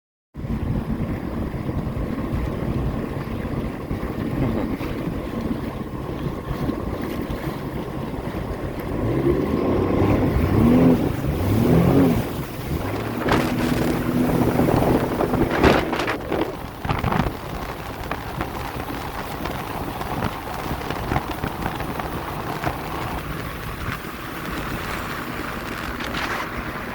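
Jet ski engine running, its pitch rising and falling a few times about ten seconds in, with wind buffeting the microphone.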